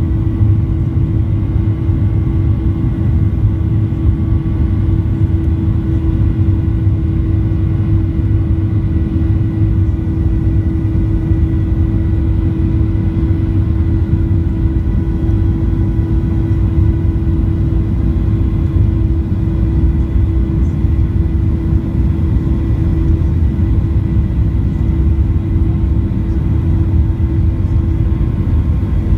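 Boeing 737-800 jet engines running with a steady low rumble and a constant hum over it, unchanging throughout.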